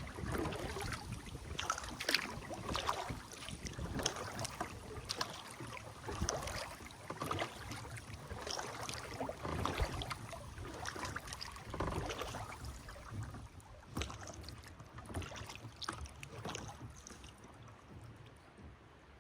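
Kayak paddle dipping and splashing in river water, stroke after stroke, with drips and water sounds, growing quieter toward the end.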